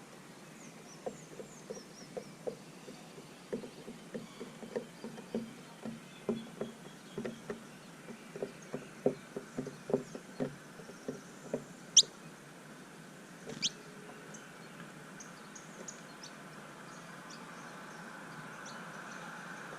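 Small birds at a seed feeder, with a quick, irregular tapping of pecking on seed and feeder, several taps a second, that dies away after about twelve seconds. Two short, sharp chirps come about twelve and thirteen and a half seconds in, over faint distant chirping.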